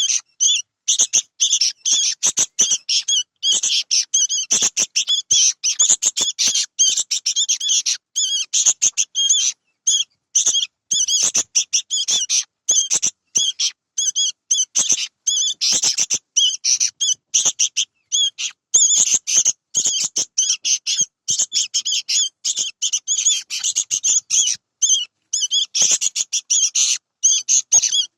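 Young sooty-headed bulbul (kutilang) giving rapid, repeated high chirping calls in quick runs with only short pauses.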